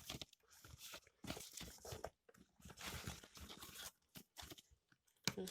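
Product packaging being handled, with irregular rustling, crinkling and tearing sounds.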